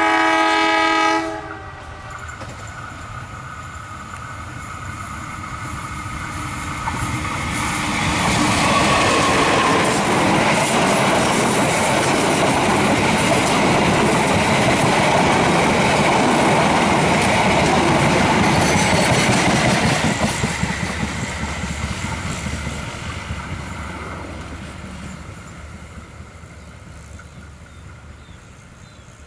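Diesel locomotive horn sounding once for about a second and a half, then a passenger train passing at speed: the rumble and clatter of its wheels on the rails builds up, stays loud for about twelve seconds, and fades as the train moves away.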